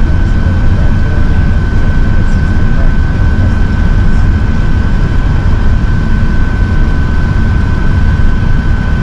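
Cabin noise inside a Qantas Airbus A380 in flight: a loud, steady low rumble with a steady high-pitched whine over it.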